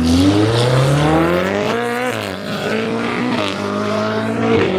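A supercar engine under hard acceleration on a launch. Its note climbs for about two seconds, drops sharply at an upshift, then climbs again.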